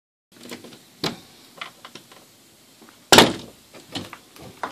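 Clicks and knocks of a door being opened, with one loud thump just after three seconds in.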